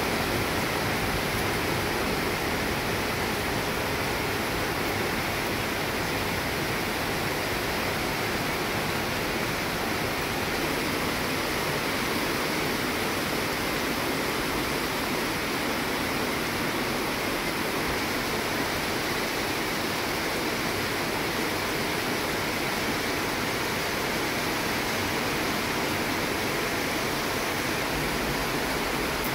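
Steady rain falling on garden plants and paving: an even, unbroken hiss.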